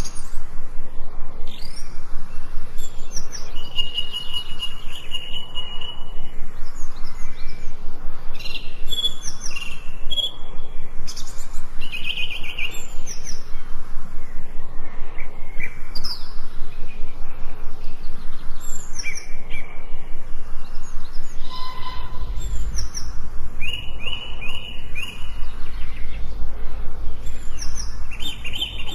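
Forest birds chirping and singing: many short overlapping chirps, whistled notes and trills over a steady background hiss. A low rumble comes in about two-thirds of the way through.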